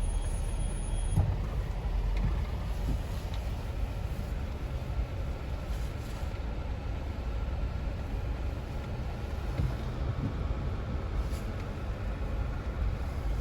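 Low, steady rumble of a Jeep Wrangler's engine running, heard from inside the cabin, with a few faint knocks.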